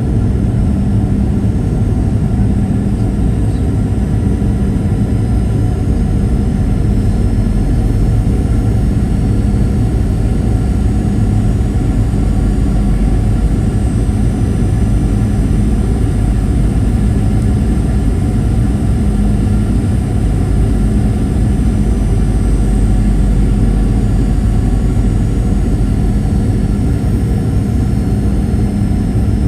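Steady cabin noise inside a Boeing 737-800 in flight: an even rush of airflow with the constant hum of its CFM56-7B turbofan engines, unchanging throughout.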